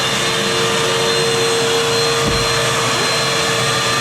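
Vacuum cleaner motor running steadily, a constant rushing noise with a steady hum and a high-pitched whine. A brief low bump sounds a little over two seconds in.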